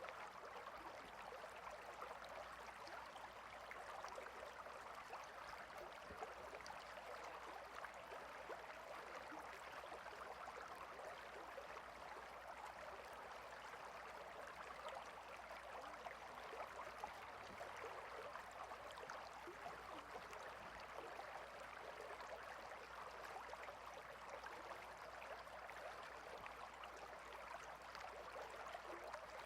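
Stream water flowing with a faint, steady babble that stays even throughout.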